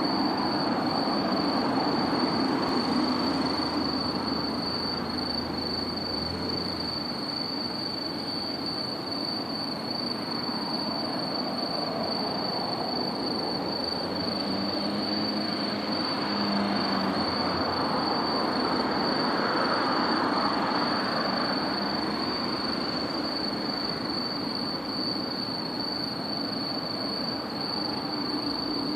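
Steady vehicle travel noise, a rumble that swells and eases slowly, with a constant high-pitched whine over it.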